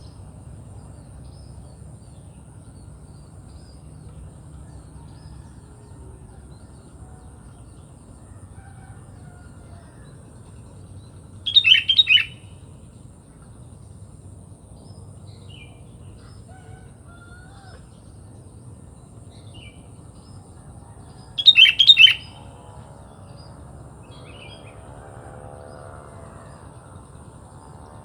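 Sooty-headed bulbul (kutilang) singing two short, loud, bubbly phrases of several quick notes, about ten seconds apart, over faint distant bird calls.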